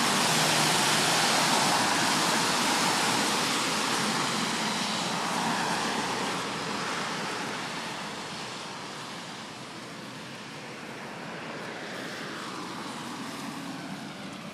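Road traffic passing: tyre and engine noise of a vehicle going by close, loud for the first several seconds and then fading away, leaving a lower traffic hum.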